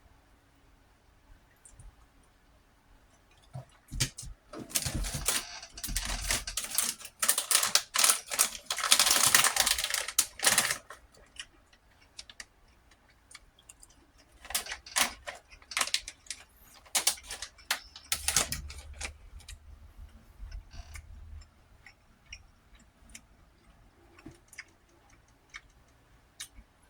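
Eating noises at close range: a utensil clicking and scraping against a plate, with mouth sounds, in scattered sharp clicks. The densest, loudest stretch runs from about four to eleven seconds in, with another cluster of clicks a few seconds later.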